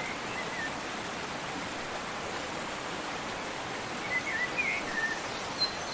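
A waterfall's steady, even rush of falling water, with a small bird chirping a few short, quick notes at the very start and again about four seconds in.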